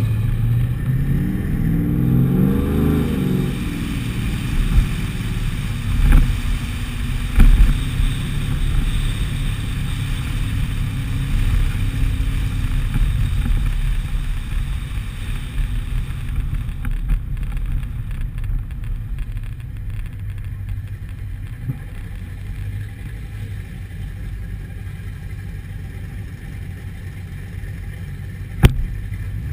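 Car engine heard from onboard while driving slowly. The revs rise briefly over the first few seconds, then it settles into a steady low drone with road noise. There are a few knocks about six and seven seconds in, and one sharp click near the end.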